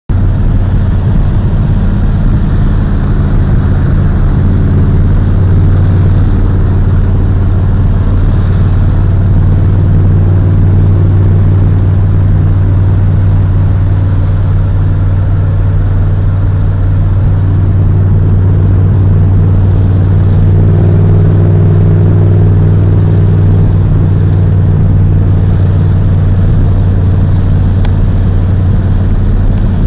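1969 Dodge Charger's engine running steadily while the car drives at road speed, heard from inside the cabin as a loud, low, steady drone with slight shifts in pitch a few seconds in and again near two-thirds of the way.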